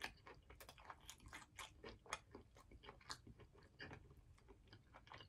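Faint crunching and chewing of a breaded, fried lemon pepper chicken wing: a crisp bite right at the start, then many quick, irregular crackles as the crust is chewed.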